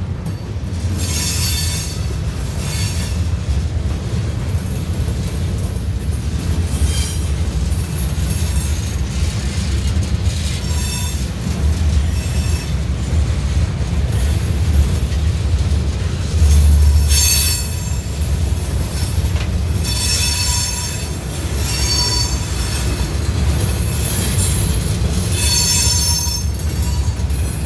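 Freight train of gondola cars rolling past at close range: a steady low rumble of steel wheels on rail, with short high-pitched wheel squeals every few seconds.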